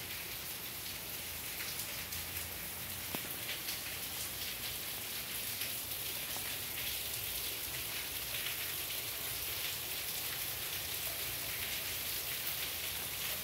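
Steady rain falling, an even patter of drops with no pause.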